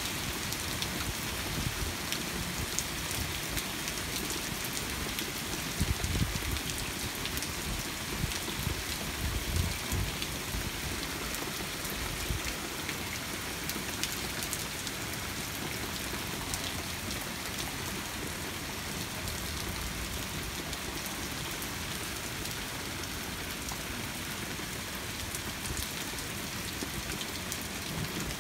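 Heavy rain falling steadily in a thunderstorm, a continuous hiss. A few brief low rumbles come about a quarter to halfway through.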